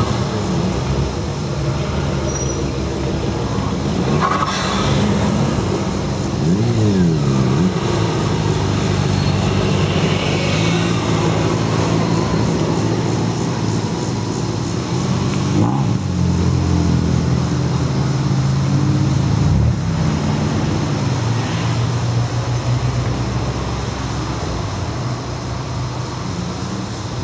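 Car engines running at low speed as cars go by, with one engine revved up and back down a few seconds in and another rev about halfway through.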